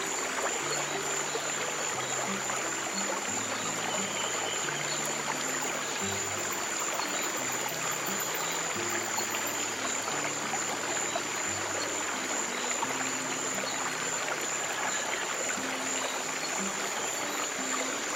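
Steady running water of a stream, with soft low piano notes moving slowly underneath and a thin steady high tone above.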